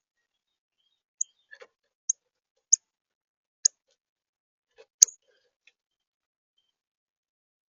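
Northern cardinal giving short, sharp, high chip calls, about five spaced a second or so apart. The loudest comes about five seconds in, together with a sharp click.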